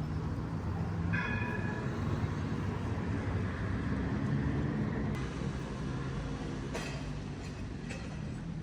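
City tram running along the street: a steady low rumble of steel wheels on rails, growing louder mid-way as it passes, with a brief high tone about a second in.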